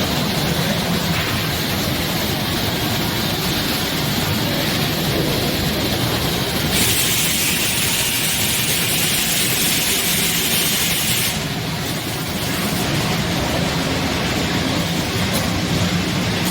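HOMAG OPTIMAT BOF 311 CNC machining centre running with a steady mechanical drone, a louder hiss joining it for about four and a half seconds in the middle.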